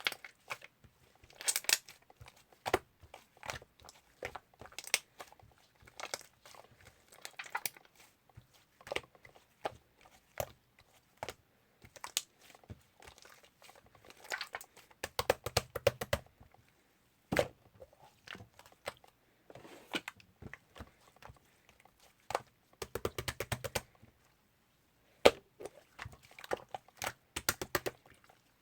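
Irregular sharp clicks and taps, some coming in quick rapid clusters.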